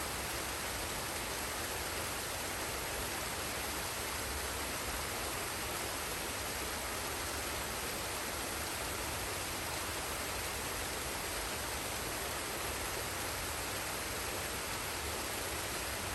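Forest waterfall and stream water rushing in a steady, even roar, with no separate splashes or other events.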